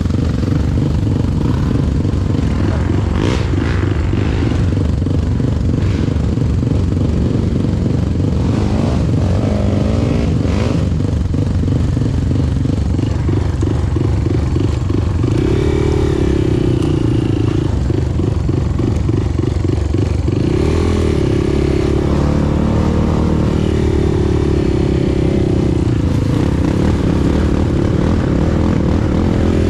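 Motorcycle engine running loudly, revved up and down repeatedly, with its pitch rising and falling several times in the second half.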